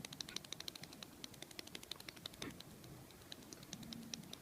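A gull paddling its feet on the spot, a rapid, faint, irregular pattering of light foot taps, like fast typing.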